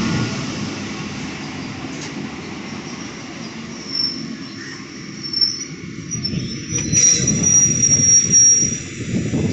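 Electric local train running along the track with a low rumble, its wheels squealing high and thin from about four seconds in, loudest near the end.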